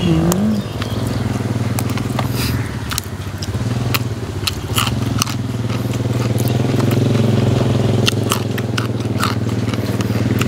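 Close-up crunchy chewing and biting of fresh raw vegetables such as yardlong beans: many short, sharp crunches scattered throughout. A steady low motor hum runs underneath.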